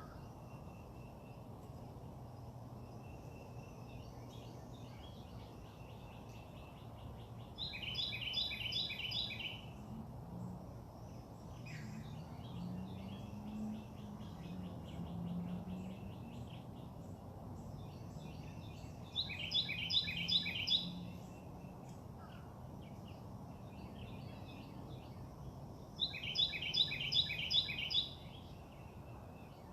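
A songbird singing three loud phrases of quickly repeated notes, each lasting about two seconds, with fainter bird chirps in between, over a steady low outdoor rumble.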